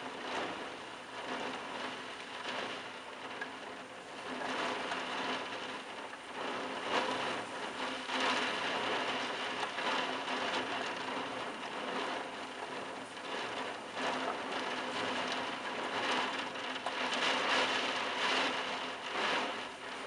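Heavy thunderstorm rain pelting terracotta roof tiles, a dense steady hiss that swells and eases in surges.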